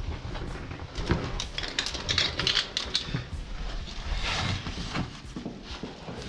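Irregular small clicks, knocks and scuffs of a caver moving over rock with climbing gear.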